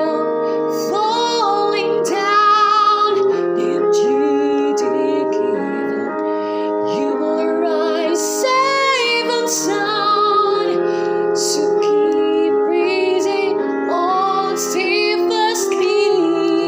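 A woman singing a slow ballad melody with vibrato over piano accompaniment.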